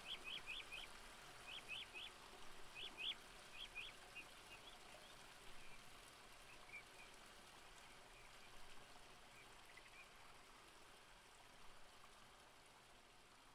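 Faint outdoor ambience with a small bird giving quick runs of short, high, downward-sweeping chirps in threes and fours. After about three seconds these thin out to scattered calls, and they stop around ten seconds in, leaving a faint steady hiss.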